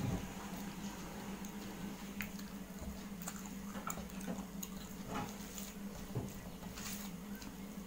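A person chewing food, with scattered wet mouth clicks and smacks, over a low steady hum.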